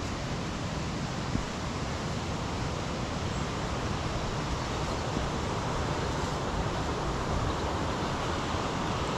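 Fast-flowing river water rushing steadily, growing slightly louder, with one small tick about a second and a half in.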